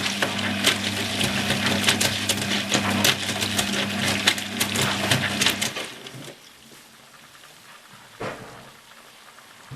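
Hoover HTC 172 washing machine in a wash phase: the motor hums as the drum tumbles wet laundry, with a dense, uneven clatter and slosh. The motor and tumbling stop about six seconds in, leaving a low hiss, and a single sharp click follows about two seconds later.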